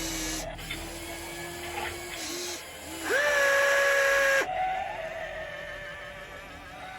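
Small electric gear motors of a radio-controlled toy excavator whining in short runs as the arm moves, each run starting with a quick upward slide in pitch. There is a lower whine for about two seconds, then a louder, higher whine for about a second and a half midway, then a fainter whine to the end.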